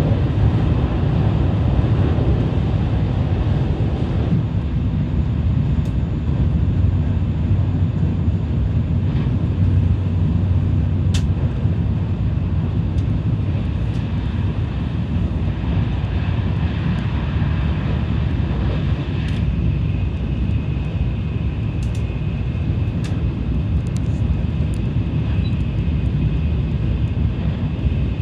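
Tokaido Shinkansen bullet train running at speed, a steady low rumble heard from inside the passenger car, with a few faint ticks and a faint high whine joining about two-thirds of the way through.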